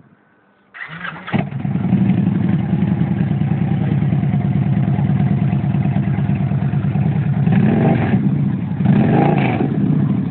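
Vehicle engine cranked by the starter, catching about a second in, then idling loudly with the deep, pulsing exhaust note of freshly fitted aftermarket Atom Bomb mufflers. The idle swells briefly twice near the end.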